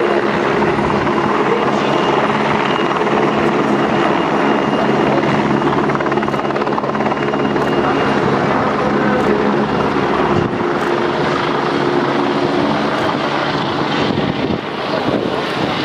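Helicopter running loud and steady, rotor and engine noise with a constant pitch, easing slightly after about ten seconds.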